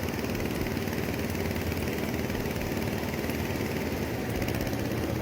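Tractor diesel engine running steadily, a low even drone with no change in pitch.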